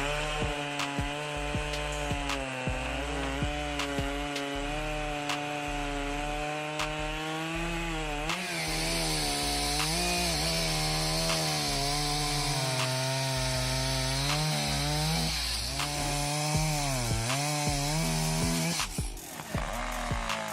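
Chainsaw running at high speed while cutting wood, its pitch sagging and recovering several times as the chain loads up in the cut. It breaks off abruptly near the end.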